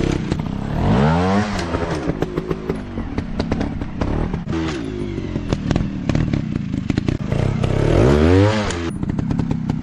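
Dirt bike engine running, revved up and back down twice: about a second in and again near the end. Clattering knocks run throughout.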